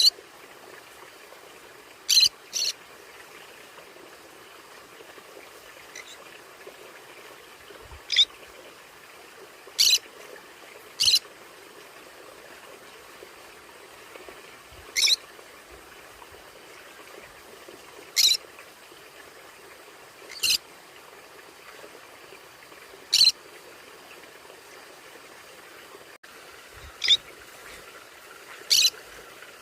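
Conure giving short, sharp, high-pitched calls, about a dozen single squawks spaced irregularly every one to four seconds, some in quick pairs, over a faint steady hiss.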